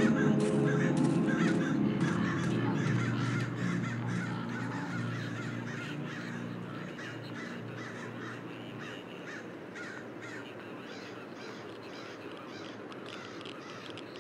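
Birds calling over and over, harsh and repeated, over low droning background music that fades out over the first half.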